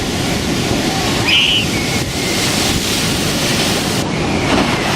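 Heavy storm surf: a loud, steady rush of breaking waves and churning water, with a short high-pitched sound about a second and a half in.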